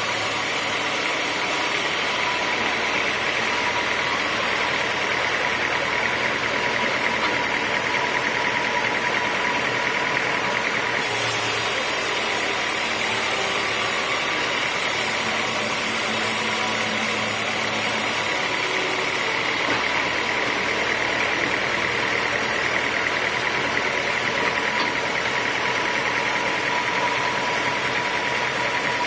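Homemade sawmill running steadily while sawing teak, a continuous mechanical din with a steady whine. A brighter high hiss sets in about a third of the way through and eases off about two-thirds through.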